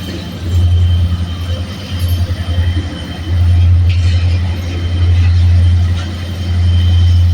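Freight train on the move: a deep, loud rumble that swells and eases several times, with a faint steady high tone above it.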